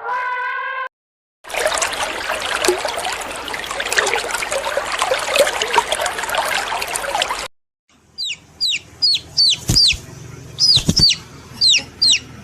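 A large flock of chickens clucking and chattering all at once, cut off suddenly. After a short gap, a chick peeps over and over: short high calls falling in pitch, about two a second, with a couple of loud thumps among them.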